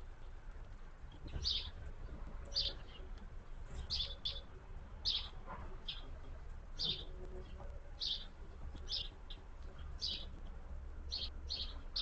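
A small songbird chirping: short, high chirps repeated about once a second, now and then two in quick succession.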